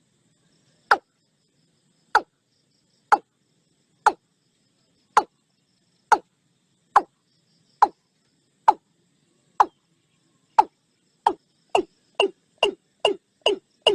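Watercock calling: a series of short notes, each dropping quickly in pitch, about one a second and then speeding up to about two a second near the end.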